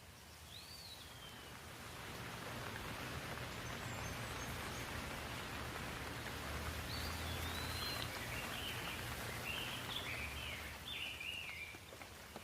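Steady rain falling, swelling over the first couple of seconds and easing near the end. A bird calls once near the start and gives a run of short chirps and warbles in the second half.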